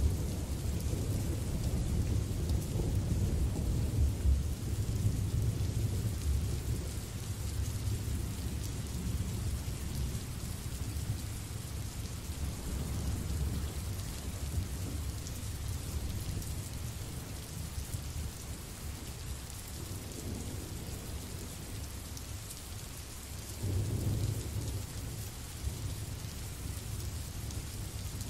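Rain sound-effect recording: steady rain hiss over low rolling thunder, the rumble strongest in the first few seconds and swelling again late on.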